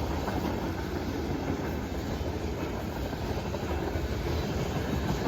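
Norfolk Southern manifest freight train rolling past: a steady rumble of wheels on the rails.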